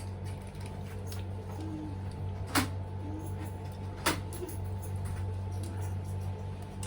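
Two short sharp clicks, about a second and a half apart, over a steady low hum.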